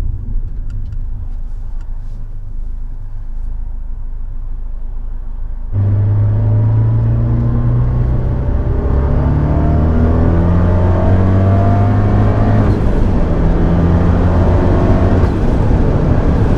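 Fiat 124 Spider's 1.4-litre MultiAir turbo four-cylinder running low and steady, then, about six seconds in, getting suddenly louder as the car accelerates, its pitch climbing. The pitch drops back at a gear change about thirteen seconds in and climbs again.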